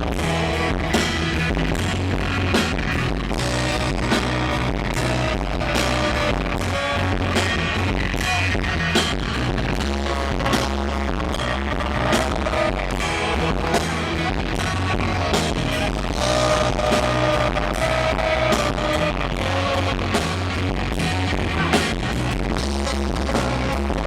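A rock band playing a song: a singer holding long notes over guitar, bass and a steady drum beat.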